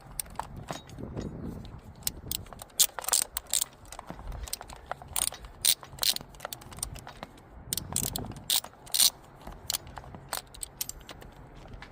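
Ratchet wrench clicking in uneven runs as the top throttle-body bolts are run in.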